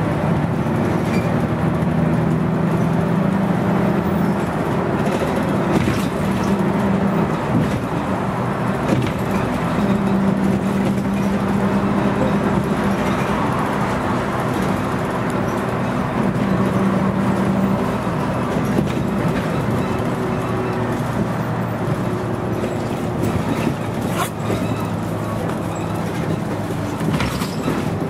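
Scania CN113CLL city bus with a Scania DSC 11.71 six-cylinder diesel engine running on the move, heard from on board. Steady engine tones step and shift in pitch as the bus changes speed, over road noise and body rattle, with a few short knocks.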